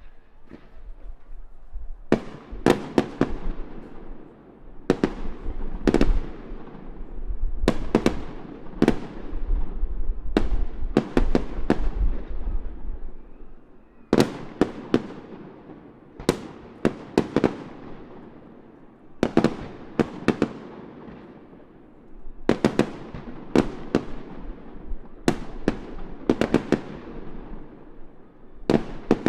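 Aerial fireworks bursting in a display: sharp bangs, often several in quick succession, each followed by a long rolling echo, starting about two seconds in and going on throughout.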